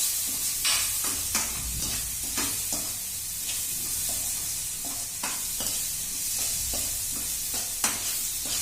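Onion-tomato masala with ground spices sizzling in a pan over a low flame while a spatula stirs it, scraping and tapping against the pan at irregular intervals every second or so. The sharpest tap comes near the end. The masala is being roasted and kept moving so it does not stick or burn.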